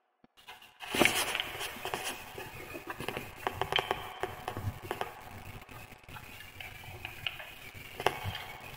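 Wood fire crackling: irregular sharp pops and snaps over a steady hiss of burning logs, starting abruptly about a second in after near silence.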